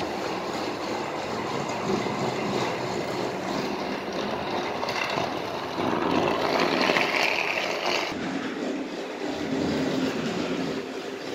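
Battery-powered TrackMaster toy engine running along its plastic track, the small motor whirring and the wheels rolling. It grows louder about six seconds in and drops back about eight seconds in.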